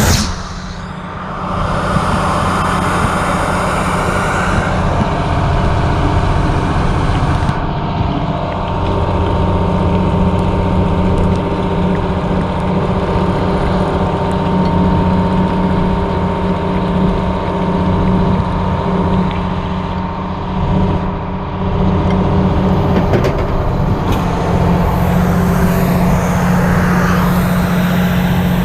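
The Detroit Diesel two-stroke engine of a 1980 Howe fire truck running steadily, driving its fire pump. About two seconds in there is a hiss that lasts a couple of seconds.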